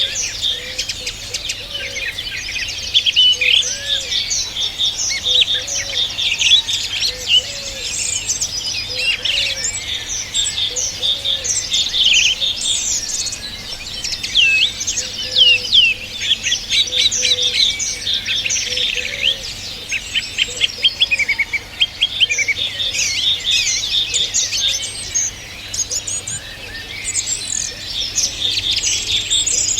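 Many birds singing and chirping at once: a dense, overlapping chorus of high chirps and quick upward-sweeping notes, with no pause.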